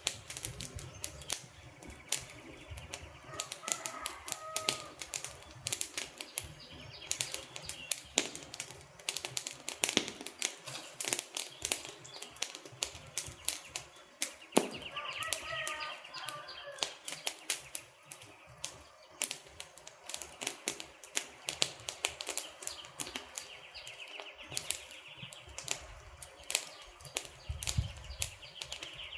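Wood fire burning with dense, irregular crackling and sharp pops of the logs over a low steady rush of flame. Twice a brief wavering whistle-like sound rises above the crackle.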